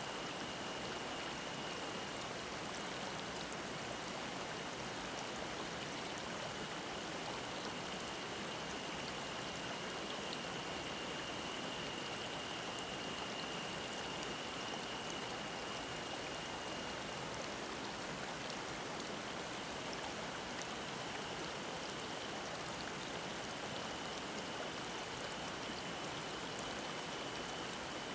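Mountain stream babbling, a steady rush of water, with a cicada's thin high drone over it that fades about two-thirds of the way through and comes back near the end.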